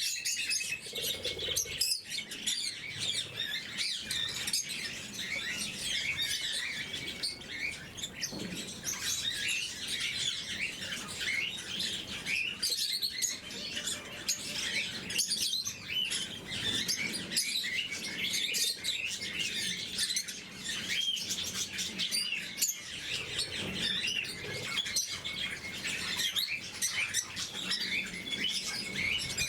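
Lovebirds chirping steadily, with many short high calls overlapping throughout.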